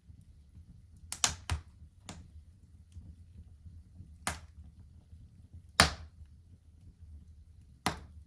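Wood fire crackling in a fireplace: about seven sharp pops and snaps at uneven intervals, the loudest about six seconds in, over a low steady rumble of the burning fire.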